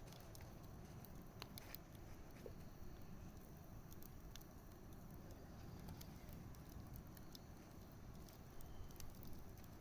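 Wood bonfire crackling faintly: scattered, irregular sharp pops and ticks over a low steady rumble.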